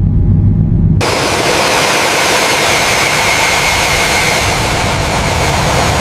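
Jet aircraft engine: a low, steady rumble that cuts sharply about a second in to a loud, steady jet roar with a faint high whine in it.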